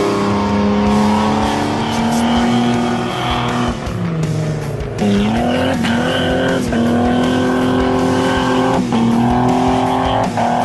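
A vehicle engine running at a steady pitch. It drops about four seconds in, then rises back and holds, like easing off and accelerating again. Background music plays along with it.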